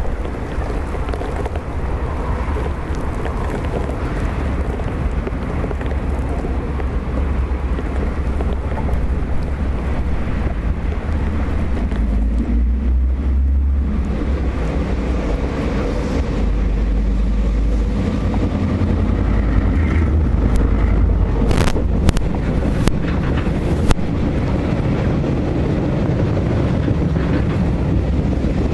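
Diesel-hauled freight train passing: a steady deep rumble from the locomotive and its wagons rolling on the rails, with wind buffeting the microphone. A few short sharp knocks come about two-thirds of the way in.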